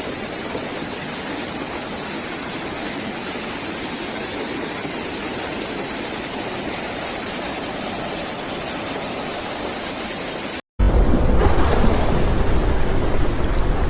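Steady rushing noise of heavy rain and flood water, with no distinct events. After a brief dropout near the end, it cuts to louder storm noise of heavy rain with a deep rumble.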